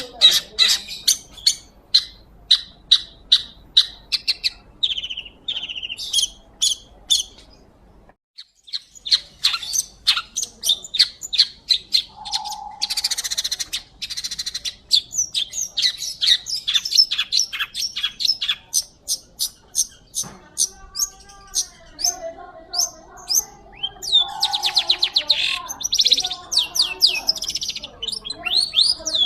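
Long-tailed shrike (pentet) singing: a long run of sharp, rapid chattering notes, several a second, broken by a short pause about eight seconds in.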